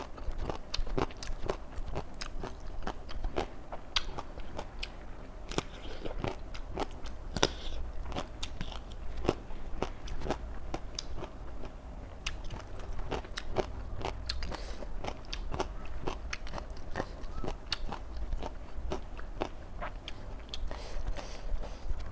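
Close-miked chewing of raw vegetables: a steady, irregular run of crisp bites and crunches in the mouth.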